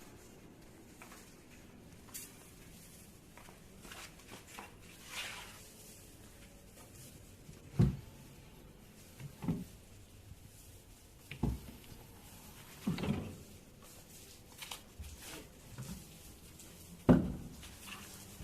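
Scattered knocks and thumps from handling and fitting kitchen cabinet parts. There are about five louder knocks, the loudest near the end, with small clicks and scrapes between them.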